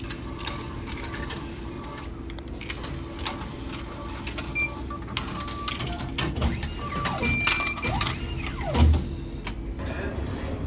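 Busy clicking and clattering, with several short electronic beeps, like those of a restaurant's ticket machine or till.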